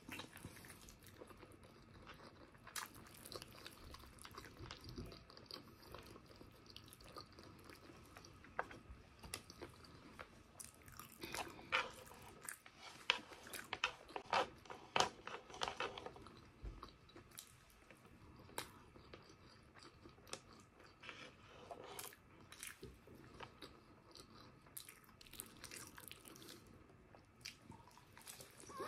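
A person biting and chewing braised pork hock (pork pata estofado): many short mouth clicks, thickest around the middle.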